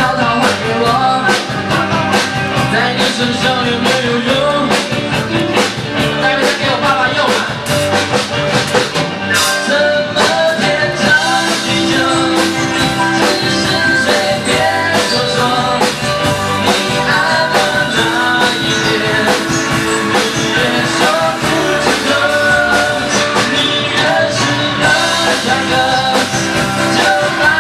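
Live rock band playing a song: drums, guitar and bass, with a voice singing over it.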